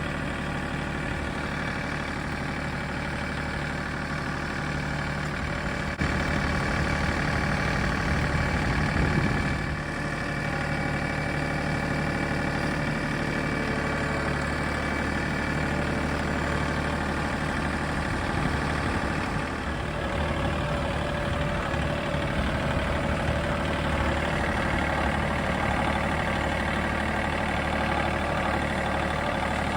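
John Deere 3 series compact tractor's diesel engine running steadily, getting louder about six seconds in.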